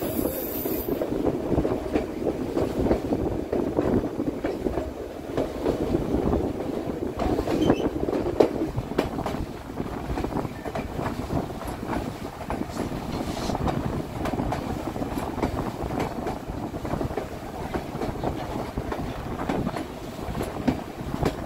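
White Pass & Yukon Route narrow-gauge passenger train running along the track: a steady rumble of steel wheels on the rails, with irregular clicks and knocks.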